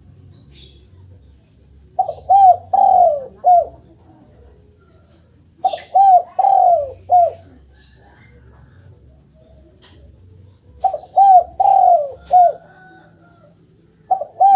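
Spotted dove (derkuku) cooing: three phrases of about four low, down-curving coos each, a few seconds apart, with a fourth phrase starting near the end.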